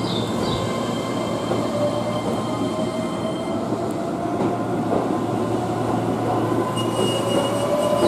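Keihan electric train at the station: steady rail and running noise, with a faint whine that slowly rises in pitch over the second half.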